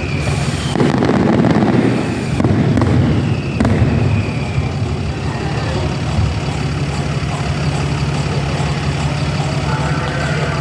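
Fireworks going off: a cluster of bangs and crackling in the first few seconds, over a steady low rumble.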